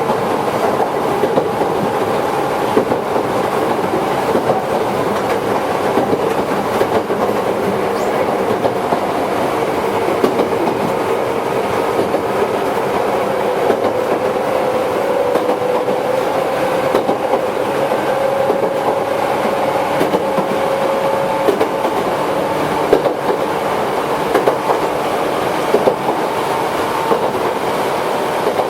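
Toyohashi Railway 1800 series electric train (ex-Tokyu stock) running along the line, a steady rumble with frequent clicks of wheels over the rail and a motor whine whose pitch rises slightly about halfway through.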